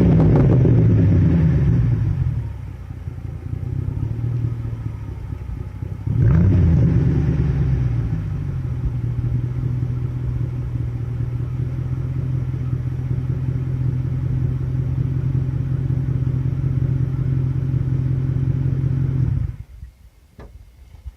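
1996 Ford Mustang GT's 4.6-litre V8 through a lightly modified exhaust. The engine note drops in pitch at the start and quietens for a few seconds, comes back loud about six seconds in, then settles into a steady note. It cuts off suddenly about two seconds before the end.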